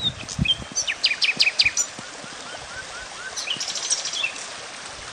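Small songbirds chirping and calling over a steady outdoor hiss. There is a quick run of sharp chirps about a second in, then a few short rising whistles, and a rapid high trill near four seconds.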